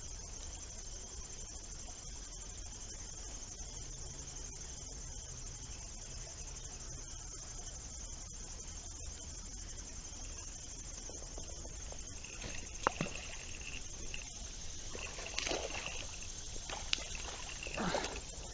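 Crickets trilling steadily and high, over a low outdoor rumble, with a few sharp clicks and short rustling swells in the last few seconds.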